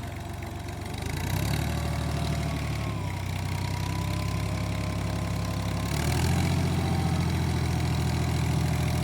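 New Holland Fiat tractor's diesel engine running hard, revving up about a second in, holding, then revving up again about six seconds in as it works to pull out of mud.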